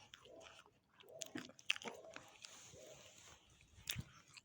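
Chickens clucking softly over and over, with sharp crunching clicks mixed in.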